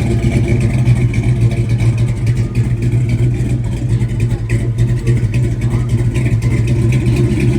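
Car engine running steadily with a strong low hum, and voices in the background.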